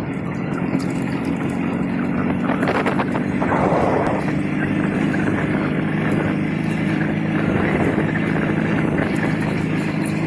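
IZh Jupiter 3 motorcycle's two-stroke twin-cylinder engine running at a steady, even speed.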